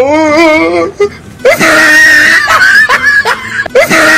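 Dubbed-in comedy sound effects: a wavering, wailing cry for about the first second, then a high-pitched looping sound, a steady tone broken again and again by short rising chirps.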